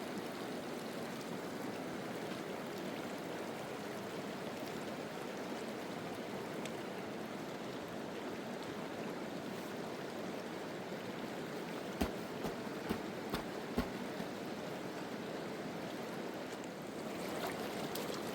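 River water flowing steadily, with a few sharp clicks in quick succession about two-thirds of the way through.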